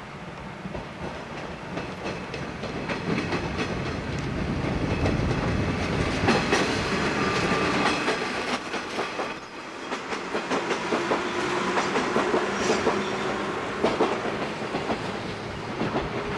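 A train running past on the line, its wheels clacking over the rail joints, building up over the first few seconds and staying loud.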